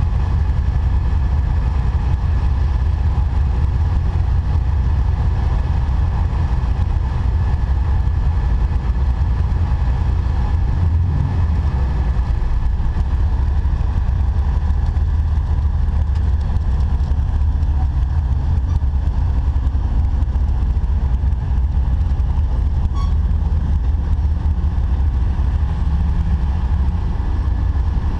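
Off-road Jeep's engine running at steady low revs, a constant low drone that does not rise or fall.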